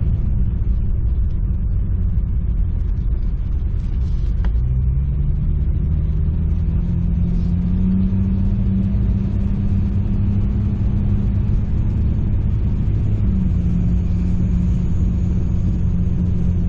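1998 Jeep Cherokee XJ on the move, heard from inside the cabin: steady engine and road noise. About four and a half seconds in the engine pitch drops, as at a gear change, then climbs steadily as the Jeep picks up speed and holds level.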